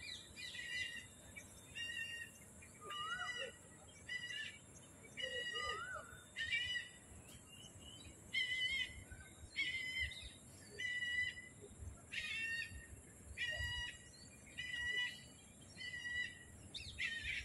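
A bird calling over and over in short, clipped notes, about one or two a second, with an occasional lower upward-sliding note, over a steady high hiss.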